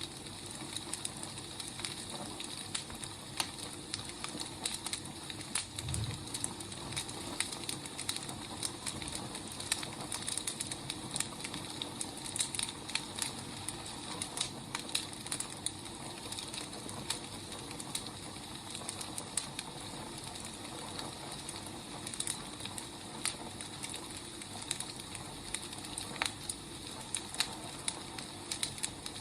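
Firewood burning: a steady hiss with irregular crackles and pops, and one soft low thump about six seconds in.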